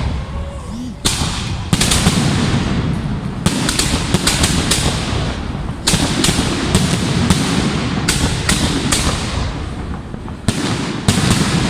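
Fireworks display: rapid volleys of sharp bangs and crackling reports over a continuous low rumble, with a short lull a little before one second in and then repeated clusters of bangs.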